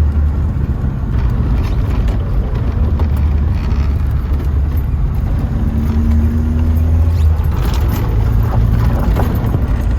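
1972 Datsun 620 pickup's four-cylinder engine running while driving, heard from inside the cab as a steady low drone over road noise. The engine note shifts up a little about seven seconds in.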